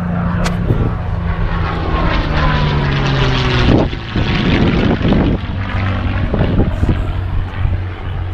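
Propeller-driven piston aircraft flying past, its engine drone dropping in pitch over the first four seconds and then holding steady.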